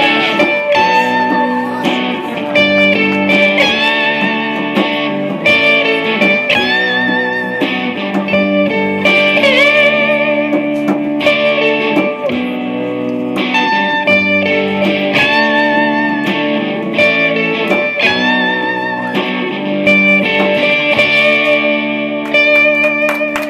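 Live guitar-led band music: an instrumental passage with sustained, wavering lead notes over a steady accompaniment.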